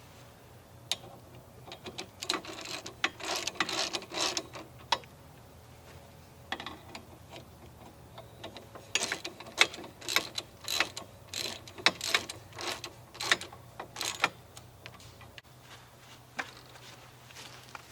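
Runs of quick metallic ratcheting clicks, one about 2 to 5 seconds in and a longer one about 9 to 14 seconds in, over a faint steady hum.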